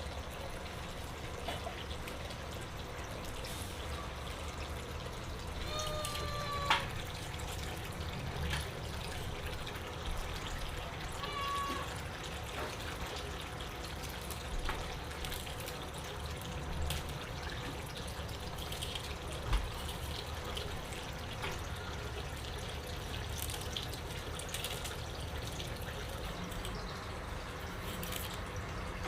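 Water trickling and dripping steadily, with scattered light clicks and knocks.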